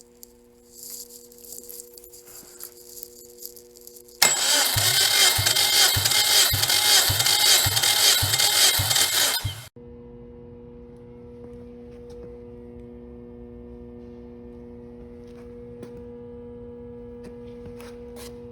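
Subaru EJ205 flat-four being cranked over by its starter motor for a compression test: about five and a half seconds of loud cranking with a pulse about twice a second, then it stops abruptly. A steady hum is heard before and after.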